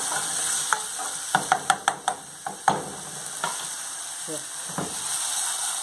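Chopped onion and green pepper frying in oil in an aluminium saucepan, with a steady sizzle. A spatula stirs and knocks against the pan in a quick run of clicks about a second and a half in, then twice more.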